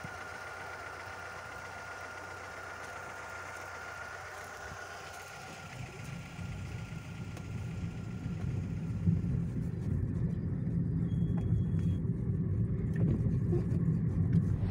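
Car engine idling with a steady hiss, then from about six seconds in the low rumble of the car moving off grows steadily louder.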